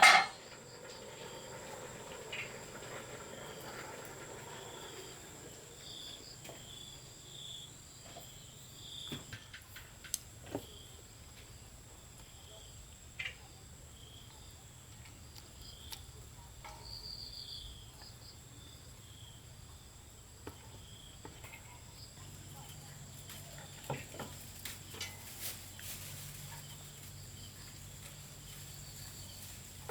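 Insects droning steadily at a high pitch, with repeated short chirps and scattered clicks and knocks; a sharp knock right at the start is the loudest sound.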